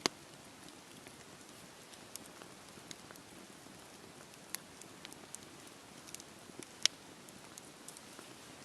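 Campfire crackling with scattered sharp pops over a steady hiss of falling rain; the loudest pops come right at the start and about two-thirds of the way through.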